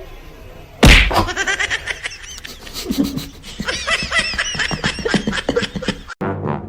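A sudden loud thump about a second in, then a person laughing hard in rapid, high-pitched bursts that cut off abruptly near the end.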